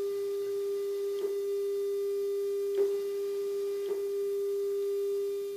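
Steady 400 Hz test tone played back off cassette tape through a Nakamichi CR7's tape monitor, recorded at 0 dB, with a few faint clicks along the way.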